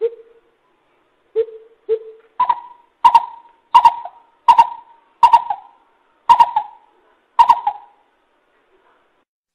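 Coucal calling: a few deep hoots in the first two seconds, then a slower run of about seven higher hooting notes with an echoing tail that stops about two seconds before the end.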